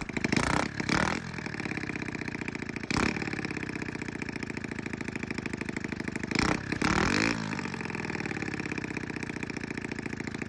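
125cc four-stroke single-cylinder quad engine running at a fast idle, blipped up in short revs about half a second in, at about three seconds and again around seven seconds. It runs with its magneto timing corrected by 180 degrees and no longer backfires out through the carburettor.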